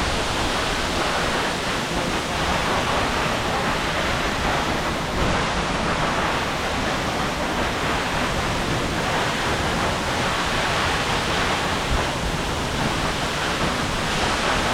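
Loud, steady rush of a waterfall: water pouring and splashing without a break.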